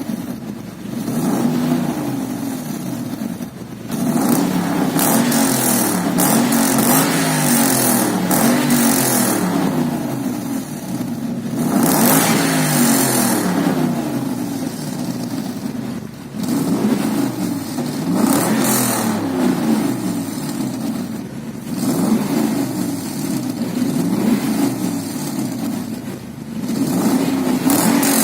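Lexus IS430's 3UZ-FE 4.3-litre V8 exhaust being revved over and over in an enclosed space, the engine speed climbing and dropping back in repeated waves, with the loudest pulls coming about every four to six seconds.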